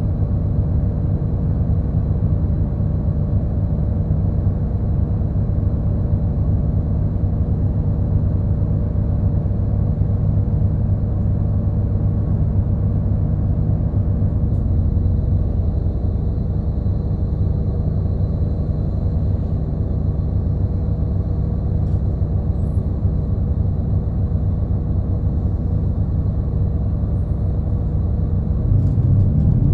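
Steady low engine and road rumble of a route bus on the move, heard from inside the passenger cabin, with a faint steady whine above it. Near the end the low rumble swells.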